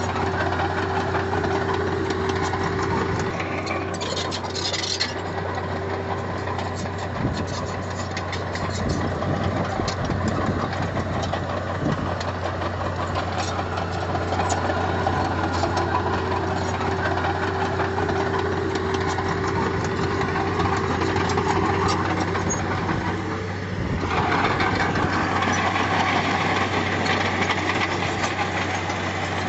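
Diesel engine of heavy earthmoving equipment running steadily under continuous work, its pitch and tone shifting briefly a few times; the engine note changes and grows brighter near the end.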